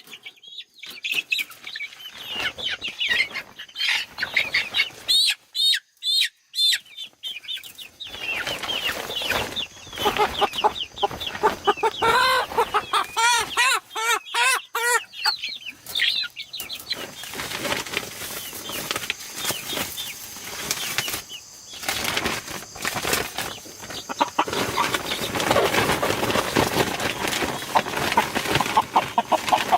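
A flock of chickens calling and clucking, with wings flapping. The calls grow thick and continuous about eight seconds in.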